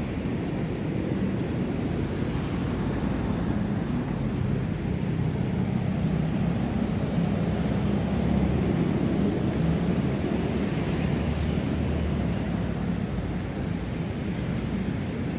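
Steady noise of heavy city road traffic, an even rumble of many vehicles passing with no single one standing out.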